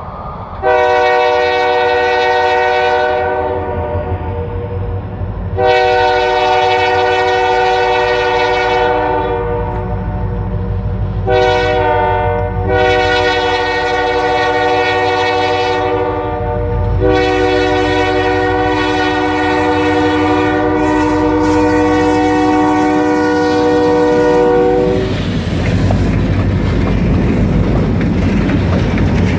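EMD SD40-2 diesel locomotive sounding its multi-note air horn in long blasts with one short blast among them, much like the grade-crossing signal, the last blast held about eight seconds. After the horn stops, the locomotive passes with a diesel engine rumble and wheels clacking over the rail joints.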